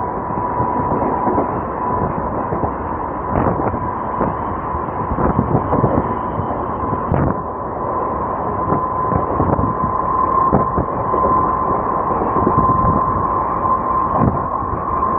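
Train running on the rails: a steady rumble broken by irregular knocks of the wheels over rail joints, with a steady whine throughout.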